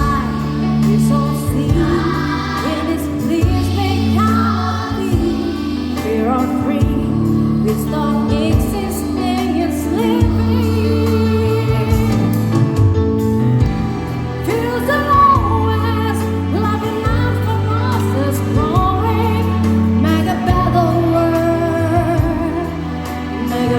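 Children's choir singing a song over an accompaniment of sustained bass and chord notes that change every second or two.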